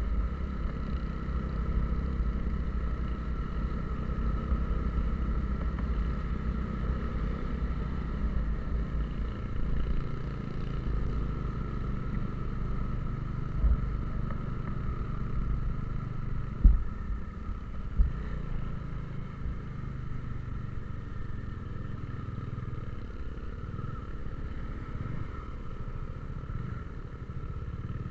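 A motor vehicle on the move: steady engine and road rumble. There are two short sharp knocks about a second apart, a little past halfway.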